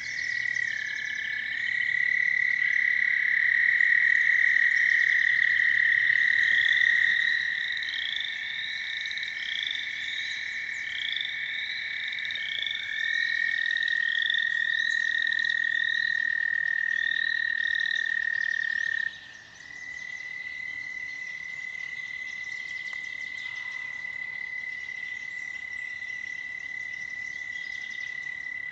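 American toads trilling: several long, steady, high trills overlap at slightly different pitches, the loudest stopping abruptly about two-thirds of the way through while a single trill carries on. Through the middle, a bird repeats short rising chirps about twice a second.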